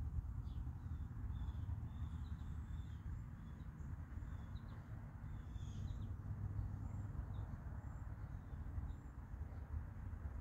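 Small birds chirping now and then, short high calls scattered through, over a steady low outdoor rumble.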